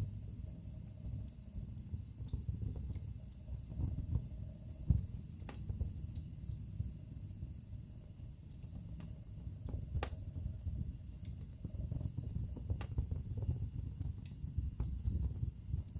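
Wood fire burning in a fireplace: a steady low rumble of flames with irregular sharp crackles and pops from the burning logs, the loudest pop about five seconds in.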